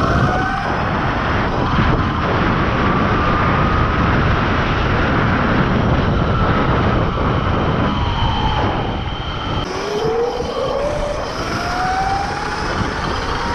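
Electric mini bike's 72-volt hub-drive motor and controller whining under hard acceleration, with heavy wind rush on the microphone. The whine climbs steadily, drops away for a few seconds in the middle as the rider eases off, then climbs again near the end.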